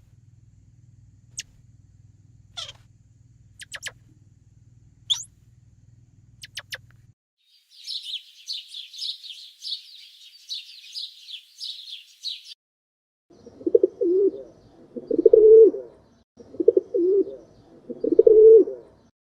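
Birds: a few sharp, scattered high chirps, then about five seconds of rapid high twittering. Near the end come four low calls of about a second each, cooing like a dove or pigeon.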